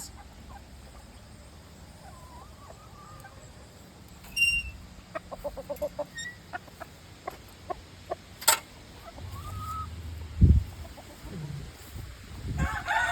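Chickens clucking in short scattered calls, with sharp clicks and knocks in between and a loud low thump about ten and a half seconds in. Near the end a rooster starts to crow.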